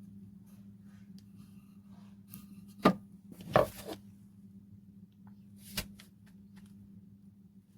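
A few sharp knocks, two close together about three seconds in and a lighter one near six seconds, over a faint steady low hum.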